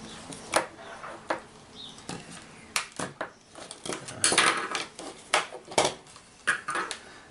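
Irregular sharp plastic clicks and clatter from a headphone earpiece being handled and pried apart, with a busier run of rattling about halfway through.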